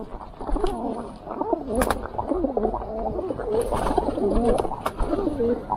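Pigeons cooing, a run of low wavering calls one after another, with a few short sharp taps mixed in.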